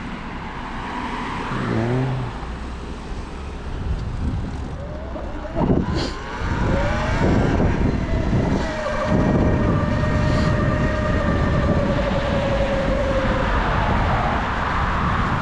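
Sur Ron electric dirt bike riding with its motor whine rising as it speeds up about six seconds in, then holding steady, over a constant rush of wind and tyre noise on the microphone.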